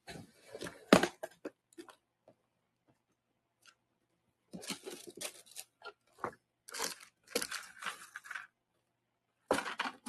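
Crinkling and rustling of small plastic packaging being handled and rummaged through, in irregular spurts, with a sharp click about a second in.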